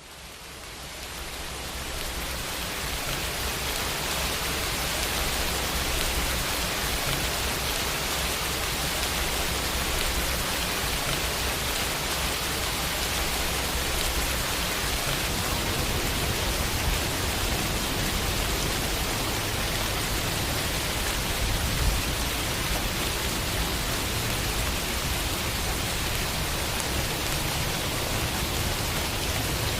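Steady rain falling on a window glass, an even patter that fades in over the first two seconds and then holds level, with one slightly sharper tap about two-thirds of the way through.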